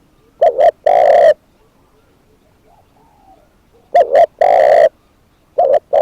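Spotted dove cooing: two phrases, each two short coos followed by a longer drawn-out coo, and a third phrase beginning near the end.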